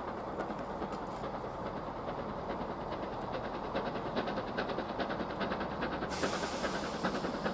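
BR Standard Class 7 "Britannia" steam locomotive working, with a rapid rhythmic beat that grows louder from about halfway. A sudden hiss of steam comes in about six seconds in.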